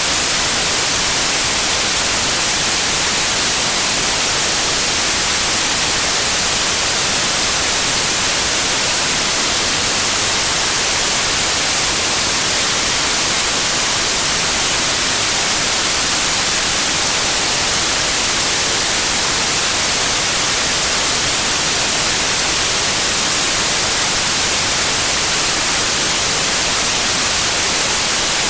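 Steady generated noise: a constant, even hiss with no pitch or rhythm, strongest in the upper range, unchanging throughout.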